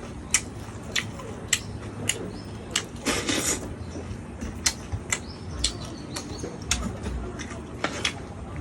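Close-up eating sounds: irregular sharp clicks of chewing and lip smacks, with a longer noisy crunch or slurp a little after three seconds in.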